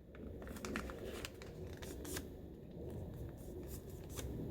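A sheet of printer paper being handled and folded, faint rustling with a scatter of short sharp crackles as the crease is pressed down.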